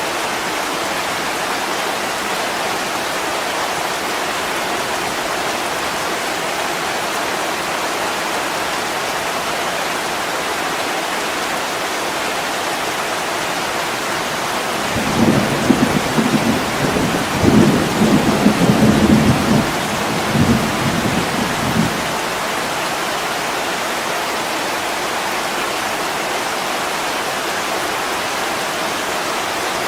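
Heavy rain falling steadily on a window pane. About halfway through, a roll of thunder rumbles low in several swells for about seven seconds, then dies away under the rain.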